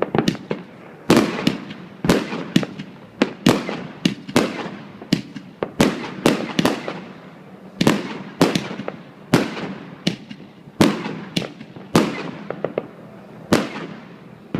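Fireworks going off in a continuous run of sharp bangs, about one to two a second, each with a long echoing tail.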